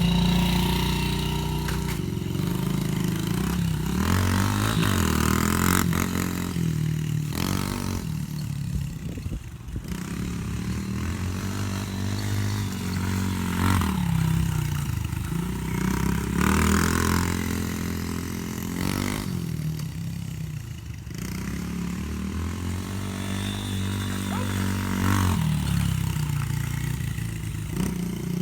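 Dirt bike engine being ridden, revving up and dropping back about five times as the rider throttles on and off.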